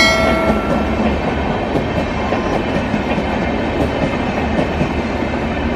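A train running steadily along its track, with a continuous rumble and clatter. A short chime sounds right at the start.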